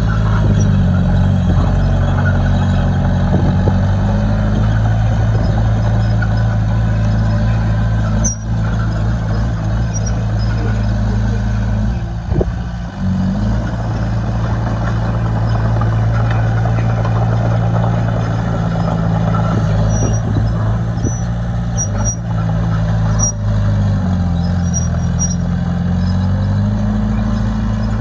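Diesel engine of heavy earthmoving equipment running steadily under load, its speed rising right at the start and dipping briefly about 24 seconds in before picking back up. A few sharp knocks sound over it.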